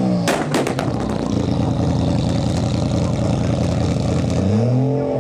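Turbocharged Toyota Supra engine coming off the rev with a quick string of loud exhaust bangs about half a second in, then running steadily at low revs before revving up again near the end.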